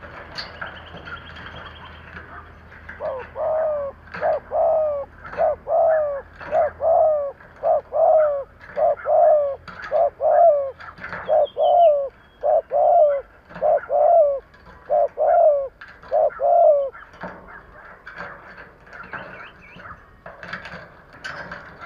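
Spotted dove cooing in the fast, urgent 'thúc' style: a run of about fourteen coos, roughly one a second, starting a few seconds in and stopping a few seconds before the end. This is the call keepers use to provoke wild doves.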